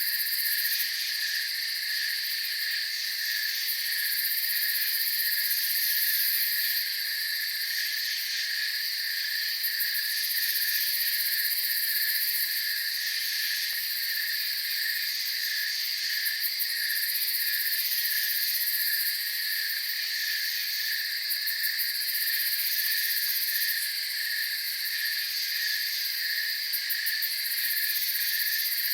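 Steady night chorus of crickets and other insects: a pulsing trill, a higher continuous buzz and a very high shimmer that swells and fades every few seconds.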